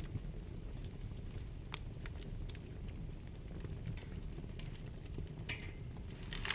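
Wood fire burning in a fireplace: a steady low rumble of flames with scattered crackles and pops, a louder pop about five and a half seconds in and another near the end.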